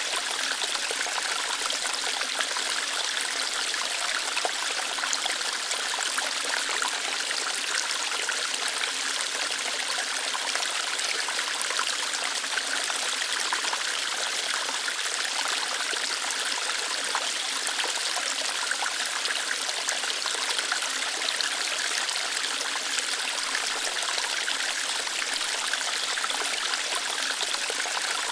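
Small waterfall flowing lightly over rocks: a steady, even rush of water with a high, hissy splashing and little low rumble.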